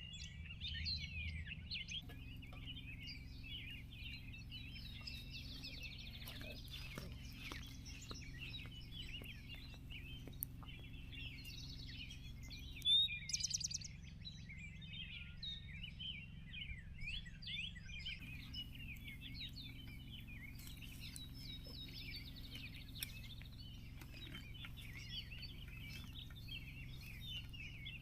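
Many wild birds chirping and calling at once in a dense, overlapping chorus, with one louder, sharper call about 13 seconds in, over a steady low rumble.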